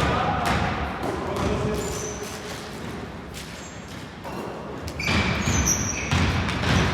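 Basketball bouncing on a hardwood indoor court, with scattered thuds of play in the hall.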